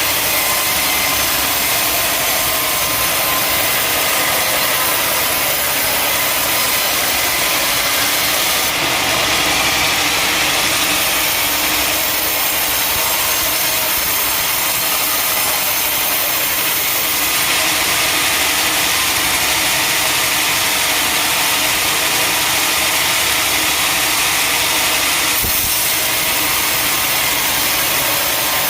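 Sawmill machinery running steadily with a constant engine-like drone and hiss. The higher hiss swells twice for several seconds at a time, as in a saw working through wood.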